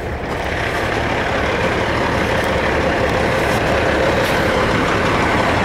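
Large diesel engine running steadily, a low rumble with a steady whine over it, growing a little louder over the first second and then holding.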